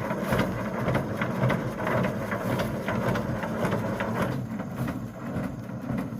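A machine running with a steady low hum and a dense, fast rattle of clicks; the rattle thins out about four seconds in.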